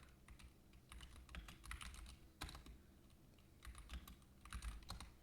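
Faint typing on a computer keyboard: irregular clusters of quick key clicks with short pauses between them.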